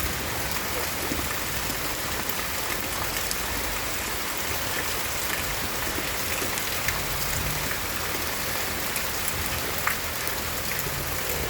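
Steady heavy rain falling and pattering on surfaces, with scattered small drop hits.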